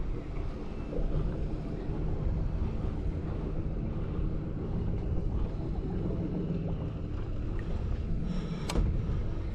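Fishing boat's engine running steadily, with wind on the microphone. A single sharp knock comes near the end.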